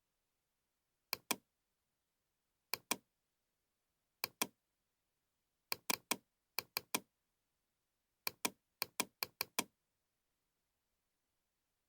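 Sharp computer mouse clicks in pairs and quick runs of up to five, about a fifth of a second apart, with dead silence between the groups.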